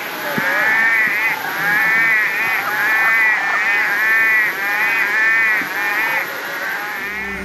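A chorus of frogs calling: repeated wavering calls, each about a second long, following one another without a break and overlapping.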